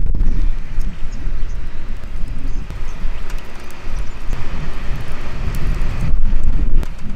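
Wind buffeting the microphone: a loud, uneven low rumble with a steady hiss over it and a few faint ticks.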